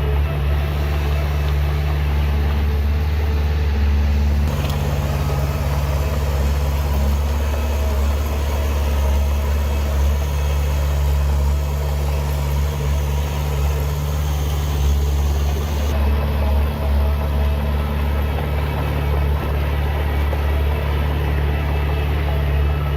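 Heavy diesel engine of earthmoving machinery running steadily with a deep drone. Its note shifts slightly a few seconds in and again later.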